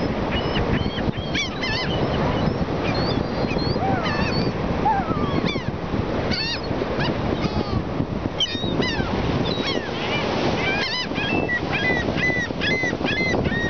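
A flock of gulls calling excitedly, many short rising-and-falling cries overlapping; near the end one gull gives a run of evenly spaced calls. A steady rush of surf runs beneath.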